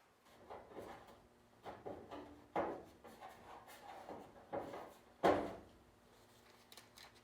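Metal tools and parts being handled: an irregular series of clunks and scrapes, the loudest about five seconds in.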